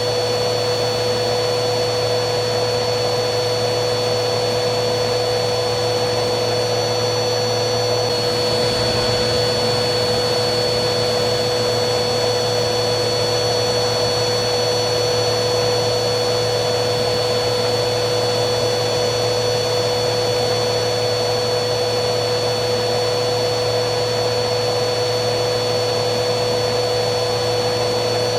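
Vacuum cleaner running steadily: a constant motor rush with a steady high whine over it, the whine stepping slightly in pitch about eight seconds in.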